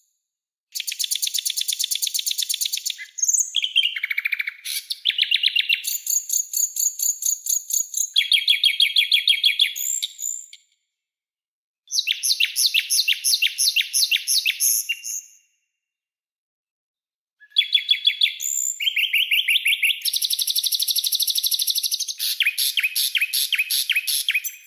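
Songbird training recording (masteran) of sharp, rapid repeated-note trills, the 'tembakan' and 'besetan' phrases, in several bursts separated by two short dead-silent gaps.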